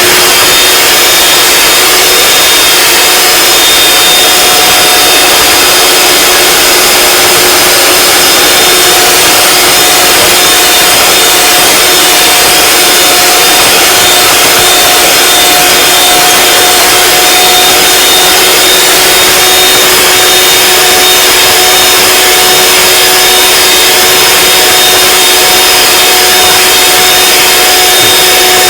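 Electric kitchen mixer running loud and steady with a constant motor whine, beating egg whites and sugar into macaron meringue.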